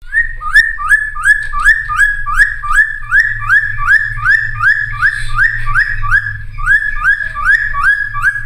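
Cucak timor singing continuously: a fast, even run of loud whistled notes, each sliding up and then holding, about two and a half a second, over a steady low hum.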